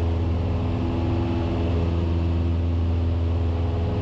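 Cessna 172S's four-cylinder Lycoming IO-360 engine and propeller droning steadily in flight, heard from inside the cockpit.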